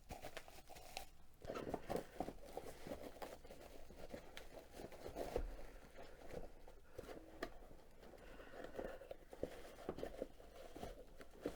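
Faint rustling, crinkling and scattered light knocks of a mug and its cardboard packaging being handled.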